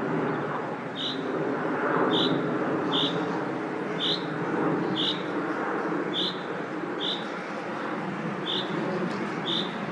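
Common chaffinch giving a short, sharp call note over and over, about once a second, against a steady rumble of road traffic.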